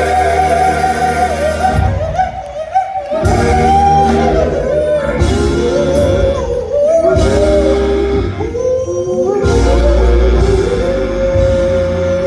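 Live soul vocal group with backing band performing a slow ballad: sung phrases with long held notes and vibrato over a steady bass line, with brief breaks between phrases.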